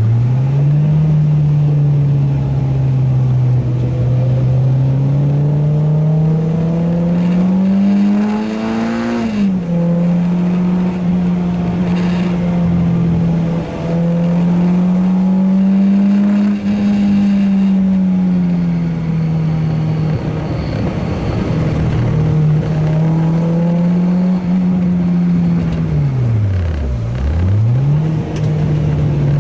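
Renault Clio 2 RS's 2.0-litre four-cylinder engine running hard on a race track. The revs climb and drop suddenly at a gearshift about nine seconds in, and they dip sharply and recover near the start and again about 27 seconds in.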